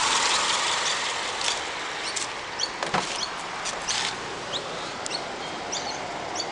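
2007 Subaru Impreza's EJ20 2.0-litre SOHC flat-four engine idling steadily, its sound easing a little in the first second or so.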